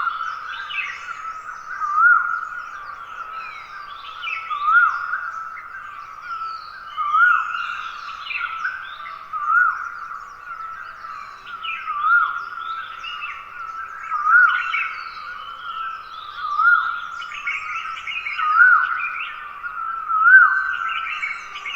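Dawn chorus of wild forest birds: many overlapping chirps and twitters over a steady high drone. One loud swooping call is repeated about every two and a half seconds, nine times.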